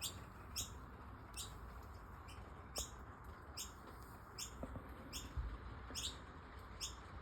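Noisy miner chicks calling: short, sharp, high-pitched calls repeated about once or twice a second, begging while the parent is away fetching food.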